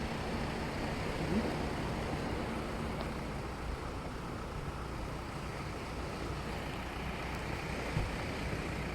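Off-road vehicle's engine running low and steady as it crawls slowly over rocks, under a steady hiss of wind.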